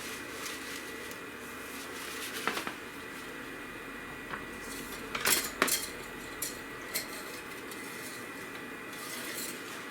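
Light metallic clicks and scrapes as an engine oil dipstick is pulled out and handled, with a cluster of sharper clinks a little past halfway, over a faint steady hum.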